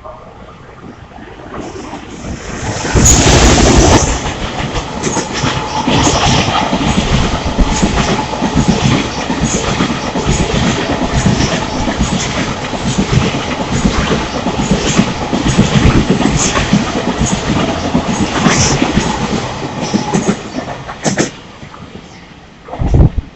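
Freight train hauled by an EF210 electric locomotive passing through a station, loudest about three seconds in, then a long string of mostly empty container flatcars and tank cars rolling by with steady clickety-clack of wheels over rail joints, dying away near the end.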